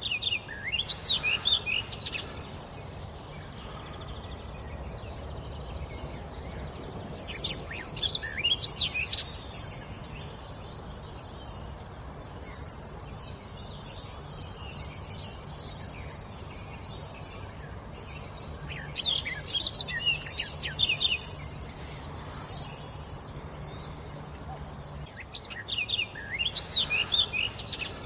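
A songbird singing four separate phrases of rapid, high whistled notes, each about two seconds long, with long pauses between them, over a steady low background hum.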